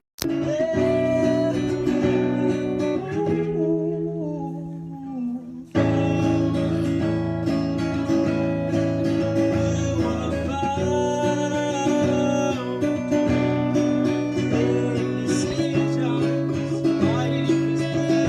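Live song with a strummed acoustic guitar and singing over a deep bass line. The low end drops out about three and a half seconds in and comes back strongly just before six seconds.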